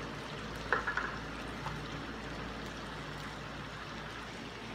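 Chicken pieces sizzling in their juices and oil in a wok, a steady hiss, with a few light ticks in the first couple of seconds.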